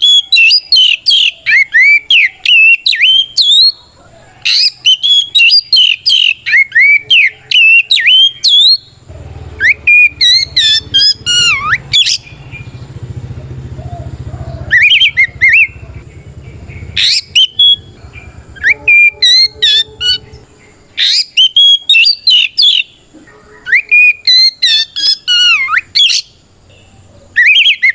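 Oriental magpie-robin (kacer) singing a loud, open challenge song ('ngeplong'), a territorial call to rivals: quick runs of sweeping, gliding whistles in repeated bursts of a second or two, broken by short pauses.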